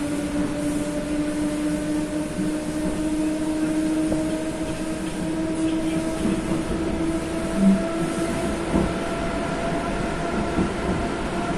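Train pulling away, heard from inside the carriage: a steady running hum whose tone rises slowly as it gathers speed, with a few wheel knocks over rail joints, the clearest about two-thirds of the way through.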